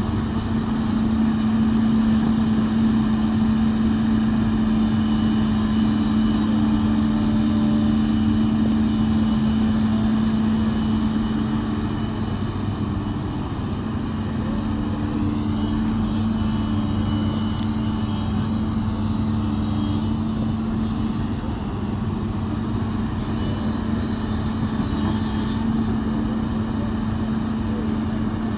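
Komatsu backhoe loader's diesel engine running steadily, with a slight dip in loudness about halfway through.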